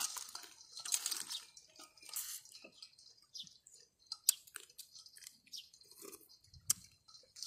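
Close-up mouth sounds of eating raw baby crab salad: chewing and crunching with scattered sharp crackles and clicks.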